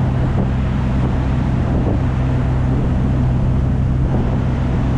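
A river boat's engine running steadily aboard: a low, even drone with a hum, under a wash of water and wind noise.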